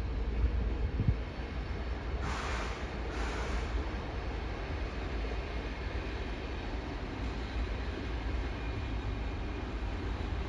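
Electric train moving through a station, a steady low rumble, with two short bursts of hiss about two and three seconds in.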